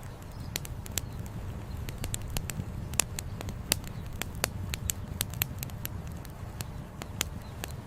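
Wood fire crackling, with sharp pops scattered irregularly, several of them louder, over a steady low rush of flowing river water.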